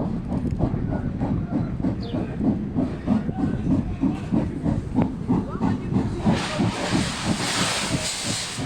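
P36 steam locomotive running with its train, making an even beat of about four pulses a second. About six seconds in, a loud hiss of escaping steam rises over it and holds.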